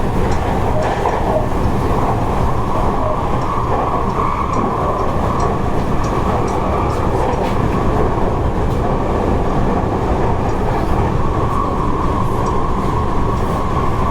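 Seibu 30000 series electric commuter train running at steady speed, heard from inside the passenger car: a continuous rumble of wheels on rail with faint light clicks from the track.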